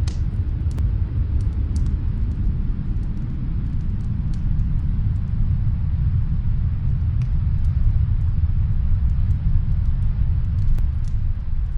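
Snowstorm wind, a steady low rumble, with faint scattered crackles from a fireplace.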